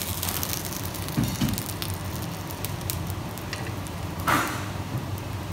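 Kitchen noise: food sizzling and crackling in a hot pan over a steady low hum, with a brief louder sound about four seconds in.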